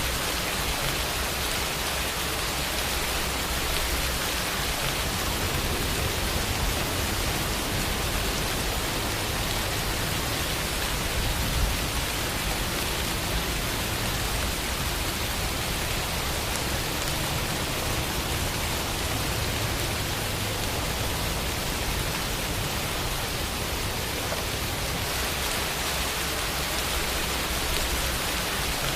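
Steady rain falling, a dense, even hiss of drops on surfaces.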